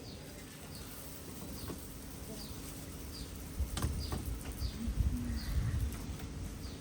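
A small bird calling over and over: short, high chirps that slide downward, about nine of them, a little more than one a second. A few low knocks and sharp clicks sound in the middle.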